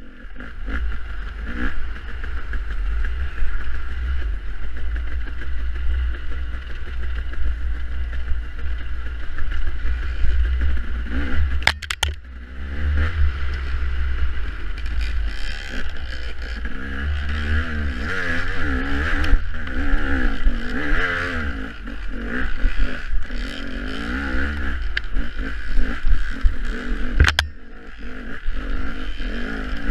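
Dirt bike engine revving up and down while riding an off-road race course, over a heavy low rumble, with sharp knocks about 12 seconds in and again near the end.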